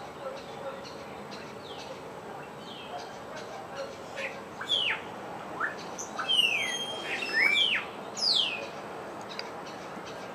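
Wild birds calling: a run of loud, sharply falling whistled calls between about four and nine seconds in, among softer chirps, over a faint steady background hiss.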